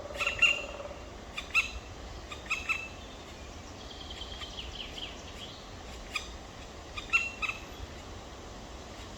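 Black woodpecker chicks calling: short, sharp calls in bunches of two or three, repeated every second or so, with a longer run of quick calls partway through.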